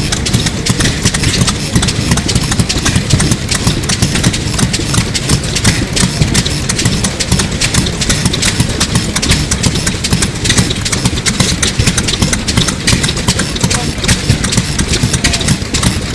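Sato 2 hp hot-bulb semi-diesel engine of about 1933 running steadily, with an even, rapid knocking.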